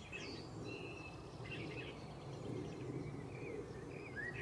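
Small birds chirping in short calls and brief whistles over a steady low background noise.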